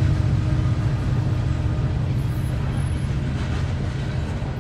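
Diesel freight train rumbling past and growing fainter, with a faint steady tone dying away about three seconds in.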